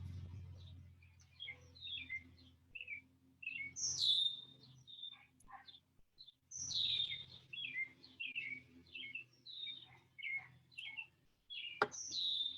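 Songbirds chirping and singing in quick, repeated short phrases, over a low steady hum. A single sharp click sounds near the end.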